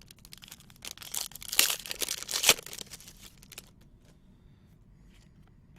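Trading card packs and cards being handled: foil wrapper crinkling and cards rustling and clicking against each other, busiest from about a second in to past the middle, then quieter.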